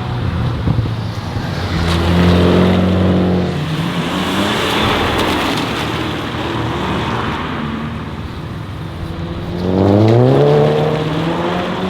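Modified performance car engines: one holds a steady note and then falls away, followed by a rushing pass. Near the end another engine accelerates hard, its note climbing in pitch.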